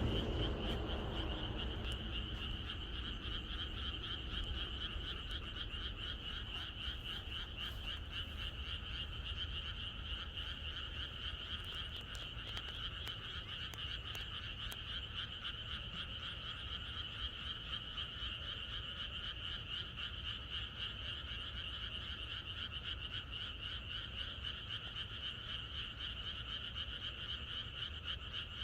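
Chorus of many frogs calling together, a dense, steady mass of rapid pulsing croaks. A low rumble fades out over the first two seconds.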